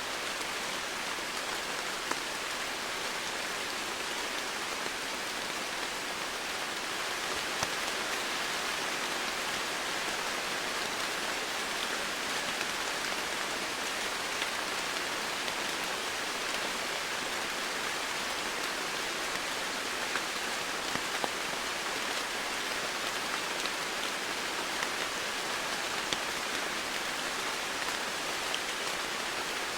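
Steady heavy rain falling on foliage and ground, a constant hiss with individual drops pattering through it.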